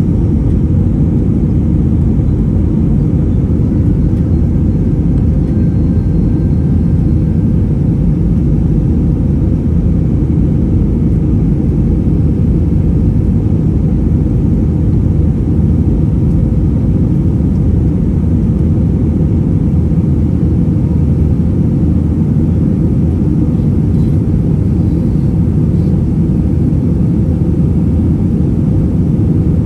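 Steady low rumble of engine and airflow noise inside an airliner's passenger cabin, unchanging throughout.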